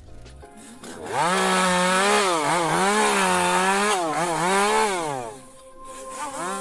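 Chainsaw revving, its pitch rising and falling repeatedly. It starts loud about a second in, drops away around five seconds, then runs on more quietly near the end.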